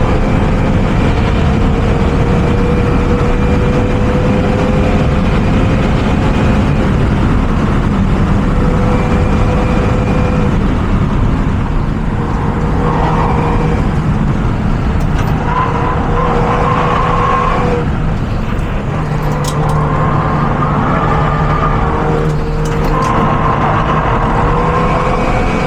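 Renault Mégane RS's turbocharged four-cylinder engine running hard on track, its note slowly rising and falling, under a steady rush of noise; a little quieter through the middle stretch.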